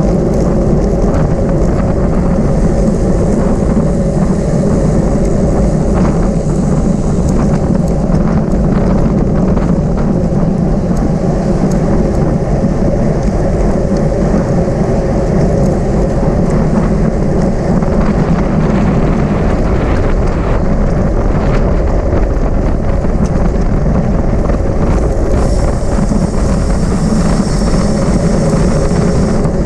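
Loud, steady wind rush on the microphone of a camera carried on a bicycle riding at race speed, a constant low roar with no breaks.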